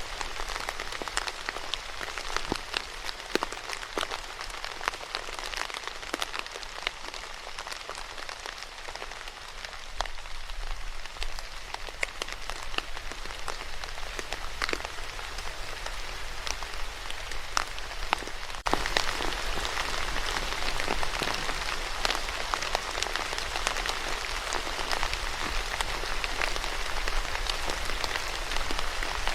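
Steady rain falling, with many separate drops landing as sharp ticks over an even hiss. About two-thirds of the way through the rain suddenly gets louder and fuller.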